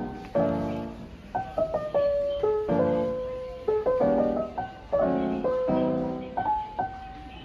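Background piano music: a gentle lo-fi piano melody over chords, notes struck and fading.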